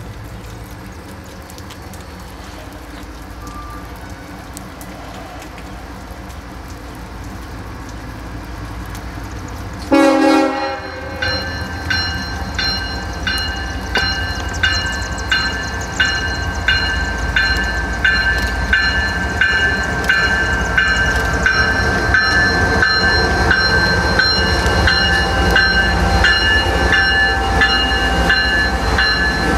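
CSX freight train approaching with its diesel locomotives, a low rumble that grows steadily louder. About ten seconds in there is a sudden loud burst, then a bell rings about once a second over the locomotives' running as the engines pull past close by.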